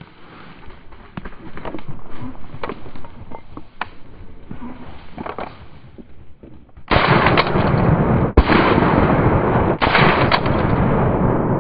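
Dry vegetation crackling and rustling close by, as of someone pushing through dense cover. About seven seconds in the sound jumps to a loud, steady rushing noise that goes on to the end.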